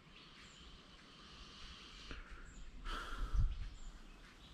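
Faint outdoor ambience in a forest park: a steady high hiss of natural background sound, with a brief rustle and low thump about three seconds in.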